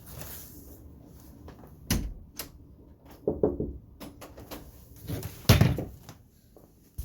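A few separate knocks and thumps: a sharp knock about two seconds in, another around three and a half seconds, and the loudest, a longer thud, about five and a half seconds in.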